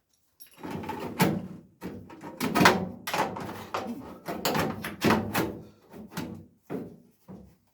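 A steel repair panel clunking, rattling and scraping against the car's body shell as it is offered up and shuffled into place for a trial fit: a run of irregular knocks with short gaps between them.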